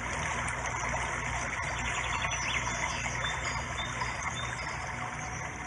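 Nature-sounds background track: steady rushing of running water.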